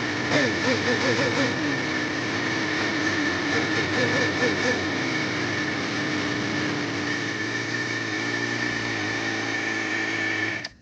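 An engine running steadily, with a steady high whine over it and a wavering lower note in the first few seconds.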